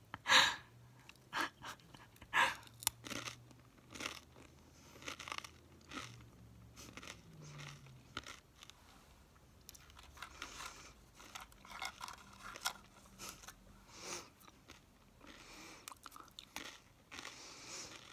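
Close-miked chewing of crunchy food: irregular sharp crunches and wet mouth sounds, the loudest crunch just after the start.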